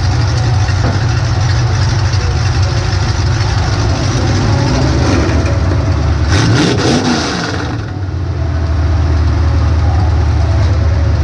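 A demolition derby car's engine heard from inside the cab, running loud and steady, revving up and back down about two thirds of the way through with a burst of harsh rattling noise, then dropping back briefly before settling again.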